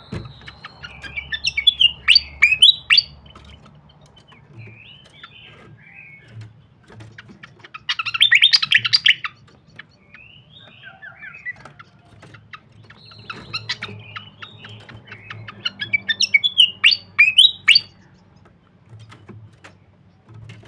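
Srikatan kipas singing in bouts of rapid, sharp chirping phrases. Three loud bursts come about a second in, near the middle and again late on, with softer calls in the pauses between them.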